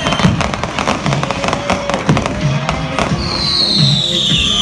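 Fireworks going off: a dense run of crackling pops for about three seconds, then a high falling whistle, over background music with a steady beat.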